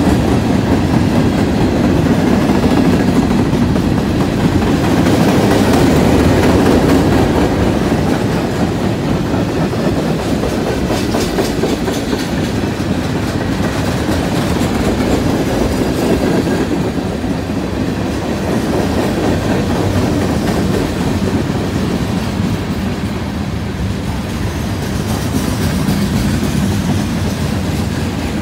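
Freight cars (gondolas, boxcars and tank cars) rolling past on the track: a steady rumble of steel wheels on rail with a clickety-clack of wheels over the rail joints.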